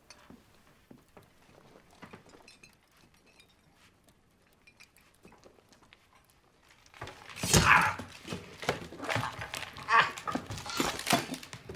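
A dog barking several times in irregular bursts, starting about seven seconds in, after a stretch of faint small clicks and knocks.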